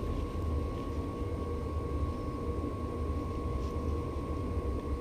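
A steady machine hum with a low rumble and a constant thin whine, unchanging throughout.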